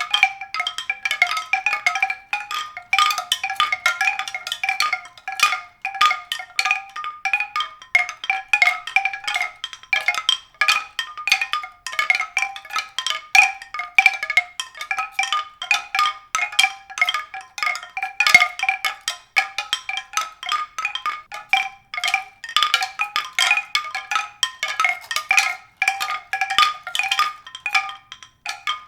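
A dense, unbroken patter of short ringing strikes on a few fixed high pitches, the sound of pitched mallet percussion.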